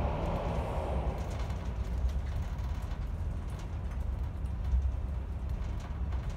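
Passenger train running, heard from inside the carriage: a steady low rumble with faint scattered clicks and rattles. A louder rushing noise fades away about a second in, as the train comes out of a tunnel.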